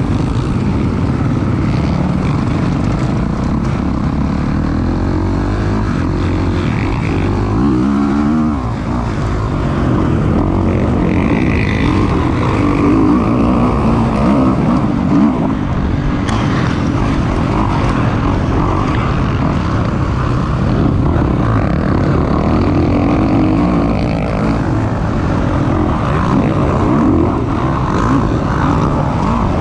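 Kawasaki KX450 four-stroke single-cylinder motocross engine running hard on track, its revs rising and falling with the throttle.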